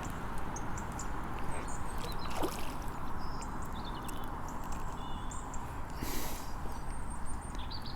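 Steady outdoor background noise with a few faint, short high chirps and a brief rustle about six seconds in.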